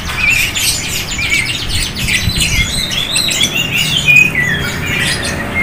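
Many caged songbirds chirping and calling at once: a dense mix of rapid high chirps, trills and short warbled phrases over a steady low background rumble.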